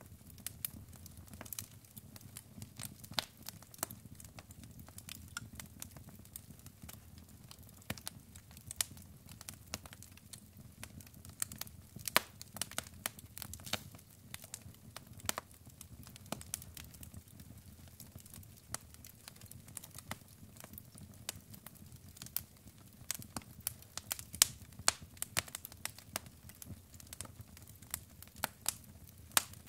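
Logs burning in a fireplace, crackling with frequent sharp, irregular pops over a steady low rumble of the flames.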